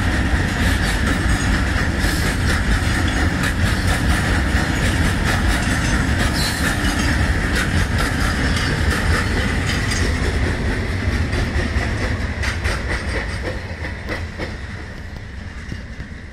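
Loaded freight train of tank wagons rolling past: a steady heavy rumble of wheels with clickety-clack over the rail joints and a steady high tone above it. It fades over the last few seconds as the brake van passes and the train draws away.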